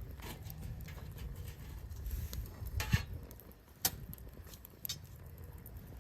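Small wood fire crackling in a compact grill, with scattered sharp pops over a steady low rumble.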